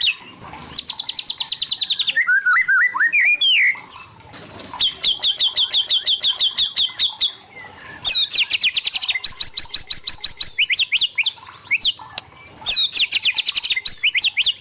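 White-rumped shama singing: four phrases of rapid repeated whistled notes and quick sweeping trills, separated by short pauses.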